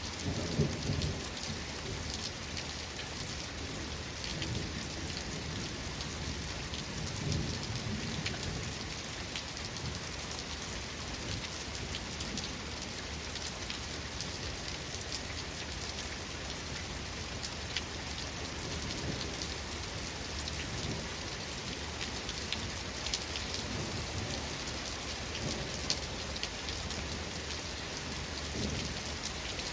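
Steady rain falling with fine drop ticks, and several low rumbles of thunder rolling through, the strongest about a second in and again around seven seconds in, another near the end.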